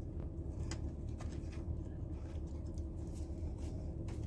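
A person biting into and chewing a breaded chicken sandwich, with scattered small crunches and soft mouth clicks, over a steady low hum inside a car.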